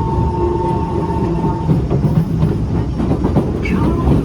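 Kawasaki C151 metro train running on the track, heard from inside the car: a steady heavy rumble with wheels clacking over the rails, and a thin steady whine during the first second and a half.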